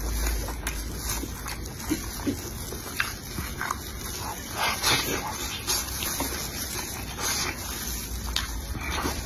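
Eating sounds at the mouth: wet chewing and irregular lip smacks as meat is bitten and pulled from a sauce-covered chicken leg.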